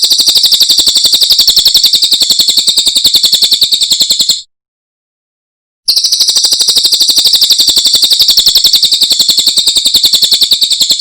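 Cililin (a small songbird kept by Indonesian bird fanciers) singing a loud, rapid trill of evenly repeated high notes in two long bouts. The first bout stops about four seconds in, and the second starts about a second and a half later.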